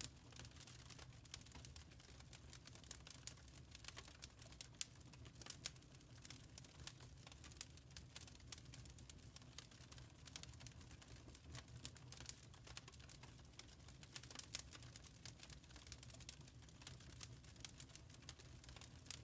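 Faint wood fire crackling: irregular sharp pops and snaps over a steady low rumble of the burning fire.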